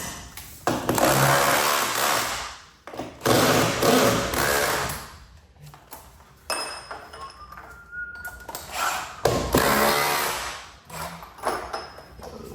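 Cordless power driver driving lag screws into the wood above a garage door to reinforce the torsion spring mount, running in three bursts of about two seconds each, with a few light metallic clinks between.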